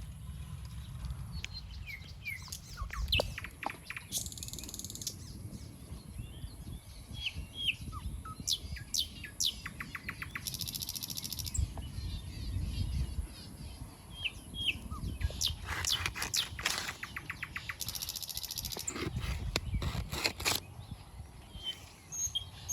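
Small birds chirping, many short falling chirps scattered through, with now and then a brief rapid buzzing trill, over a steady low rumble.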